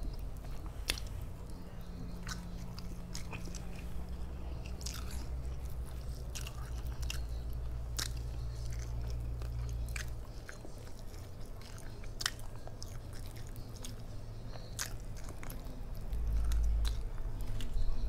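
Close-up mouth sounds of someone chewing fried flounder, with many short, sharp clicks scattered throughout.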